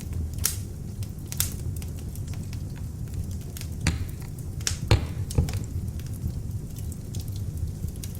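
Beech-wood log fire burning in an open fireplace: a steady low rumble of flames with irregular crackles and pops, the sharpest about four and five seconds in.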